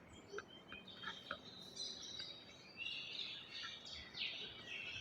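Faint birds chirping in the background, short high chirps and brief glides scattered through, with a few faint ticks.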